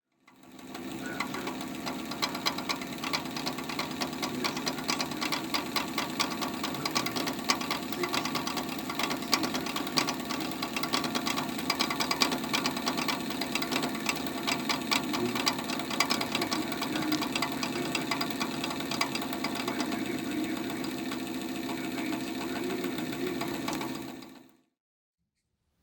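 Computer CPU cooler fan running with a steady hum and a rapid, irregular clicking rattle. The fan is noisy and running too slowly, a sign of a bearing that needs lubrication. The sound stops near the end.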